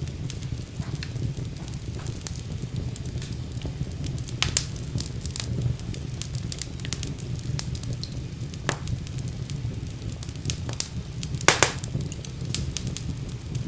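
Wood fire burning in a fireplace: a steady low rumble of flames with irregular sharp crackles and pops, the loudest a short cluster of pops about eleven and a half seconds in.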